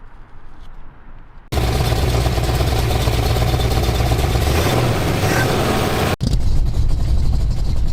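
Car engine running loud, in short edited clips: a quiet moment, then the engine comes in abruptly about a second and a half in, with a hard cut to another loud running shot about six seconds in.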